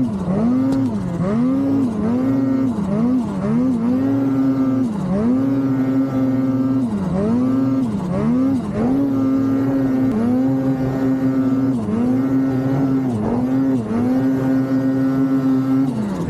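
Snowmobile engine running at high revs, its pitch dropping and climbing back again and again as the throttle is eased off and reapplied, then held high for stretches.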